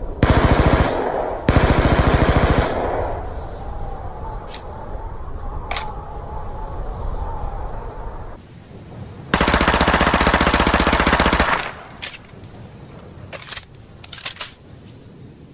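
Several bursts of rapid automatic-gunfire-like rattle, the longest about two seconds, separated by quieter stretches with a few single sharp cracks.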